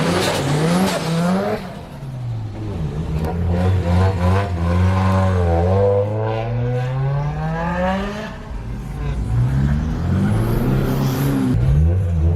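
Car engine revving, its pitch rising and falling in several slow sweeps, with brief dips in loudness about two seconds in and again near eight seconds.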